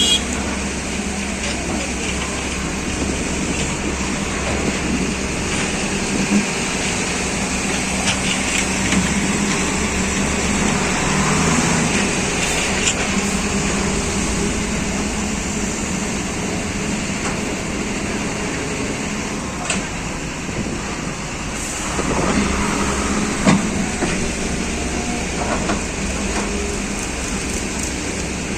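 XCMG 210C hydraulic excavator working, its diesel engine running steadily, with a few short knocks.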